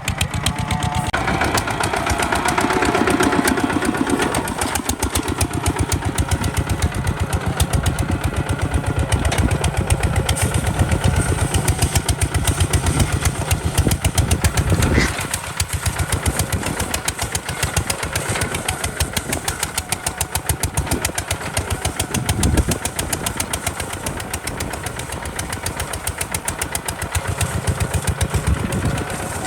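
Kubota RT140 DI single-cylinder diesel engine of a hand tractor chugging steadily under plough load, with a couple of brief dips in level along the way.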